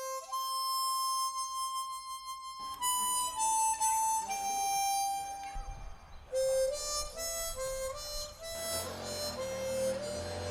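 Music: a slow melody of long held notes on a wind instrument. The first note is held for over two seconds, then the tune moves in steps.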